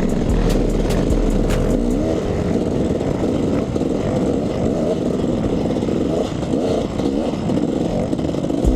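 KTM 300 EXC enduro bike's single-cylinder two-stroke engine running on a trail, its revs rising and falling with the throttle, with scattered short clicks and rattles.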